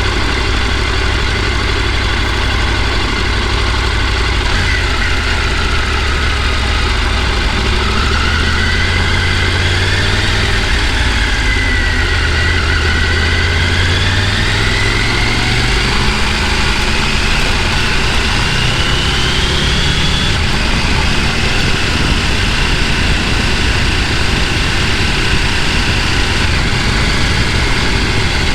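A vehicle engine running steadily, its pitch slowly rising and falling.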